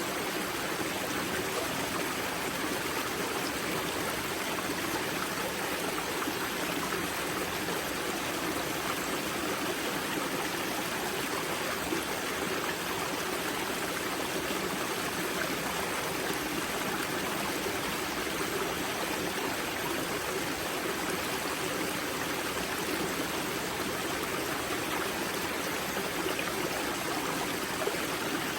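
Spring-fed mountain river flowing and splashing at its wellhead, a steady rush of running water.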